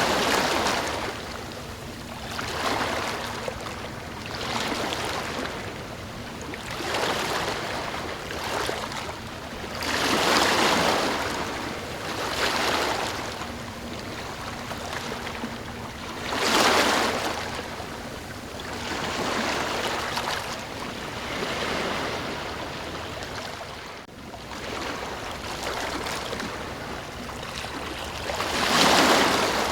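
Ocean surf: waves washing in with a swell every couple of seconds, the biggest breakers near the start, about a third of the way in, a little past halfway, and near the end.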